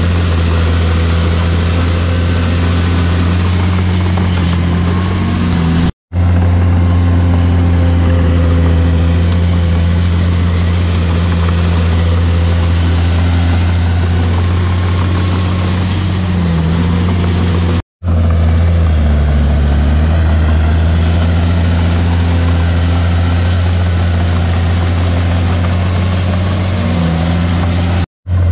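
Komatsu D51PX crawler bulldozer's diesel engine running steadily under load, its pitch sagging briefly a few times as it pushes. The sound breaks off for an instant three times.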